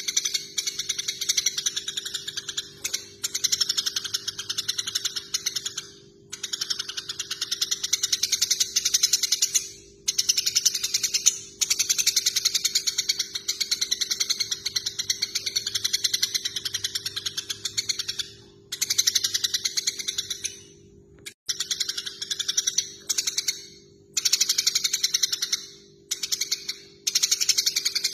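Eurasian tree sparrows giving their fighting chatter: fast runs of harsh chirps, each run lasting a few seconds with short breaks between, over a steady low hum.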